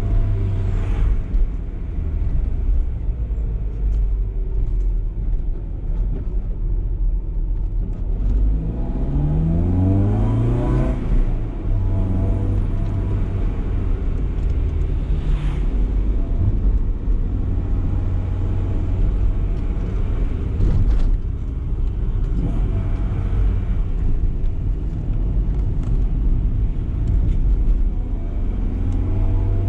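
BMW E30 318is's four-cylinder engine running steadily under light load, revs rising once about nine seconds in as the car accelerates, then dropping back to a steady drone about eleven seconds in. Revs begin climbing again near the end.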